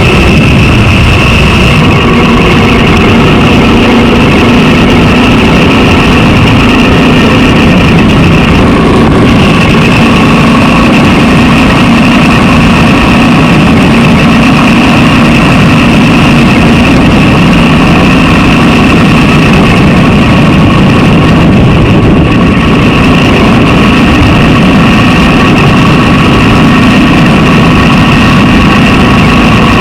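Honda XR650L's single-cylinder four-stroke engine running steadily at an even pitch.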